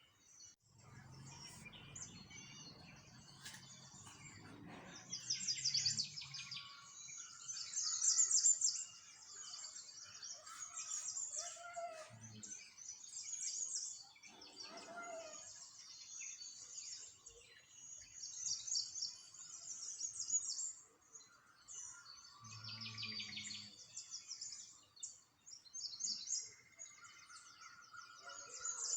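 Small songbirds chirping and twittering in quick, high series, several birds calling at once, loudest about eight seconds in.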